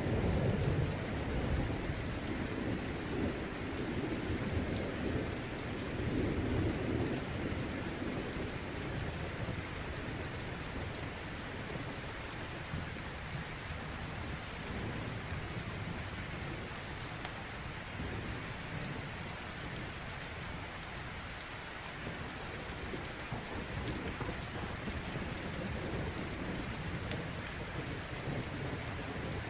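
Steady heavy rain with a low rumble of thunder that fades over the first several seconds and swells faintly again near the end. Sharp little crackles of a wood fire are scattered through it.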